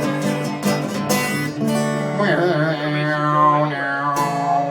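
Ukulele strumming steady chords, with a wavering sung melody line coming in over it about two seconds in.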